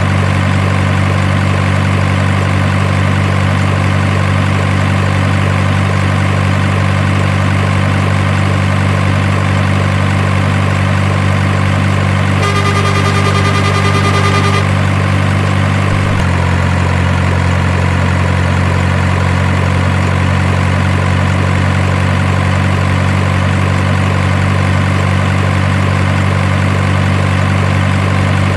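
Steady truck engine idling drone. A high tone sounds for about two seconds near the middle, and the drone shifts slightly lower just after it.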